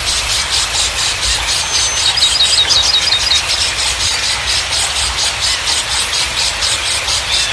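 Running water with small songbirds singing over it: a fast, regular high-pitched pulsing trill throughout, and a warbling whistle from about two seconds in for a second or so.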